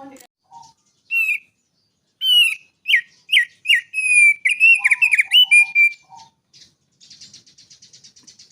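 Songbird singing: a sudden string of loud, clear whistled notes and quick slurred phrases, then a fast, high buzzy rattle near the end.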